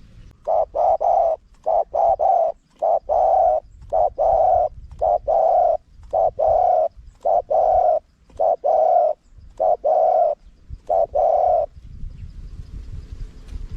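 Spotted dove cooing: a long series of low coos in quick groups of two or three, stopping near the end.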